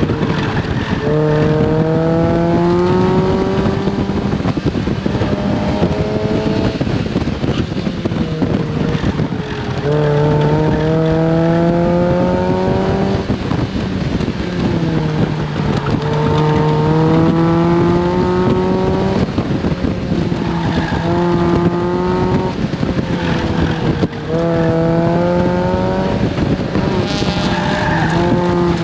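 Mazda Miata's four-cylinder engine driven hard around an autocross course, heard from inside the open cockpit. It revs up in repeated rising sweeps, each a few seconds long, broken by short drops in pitch as the driver lifts off or brakes for the next turn.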